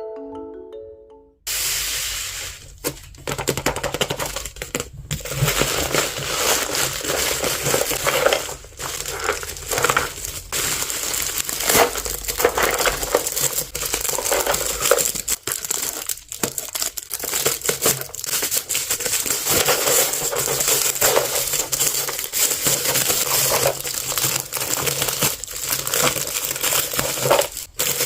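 Plastic packaging crinkling and rustling, with many small clicks and taps, as a toy is unboxed by hand. The sound starts about a second and a half in and keeps up continuously after that.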